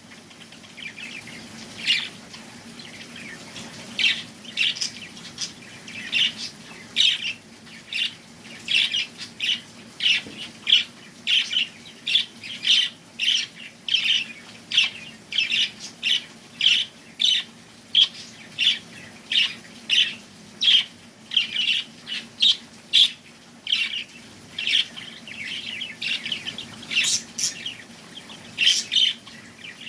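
Small birds chirping: short, high chirps repeated at a steady pace of about two a second, sparser at the start and again near the end.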